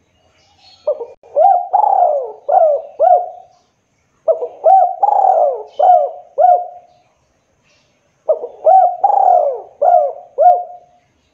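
Derkuku dove cooing: three phrases, each a quick run of about five coo notes, with short pauses between them.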